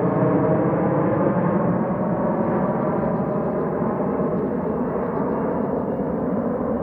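Eurofighter Typhoon jet engines, a loud steady rumble laced with ringing tones, easing off slightly toward the end.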